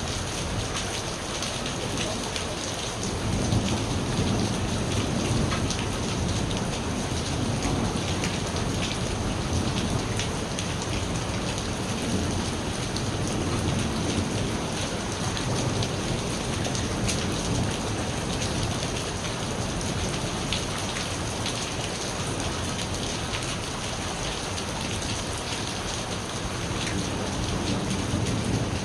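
Steady rain pattering on surfaces, with many fine drop ticks, under rolling thunder: a low rumble builds about three seconds in and rolls on for several seconds, then rises again near the end.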